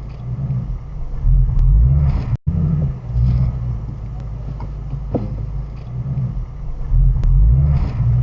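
Shelby GT350's 5.2-litre V8 rumbling at low speed as the car is driven, swelling louder twice, with a brief break in the sound about two and a half seconds in.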